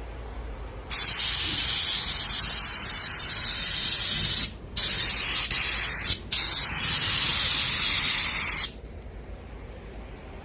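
Compressed-air bedliner spray gun on a bottle spraying urethane bedliner, with the air set to 25 psi: a loud, steady hiss starts about a second in, cuts out twice briefly, and stops near the end.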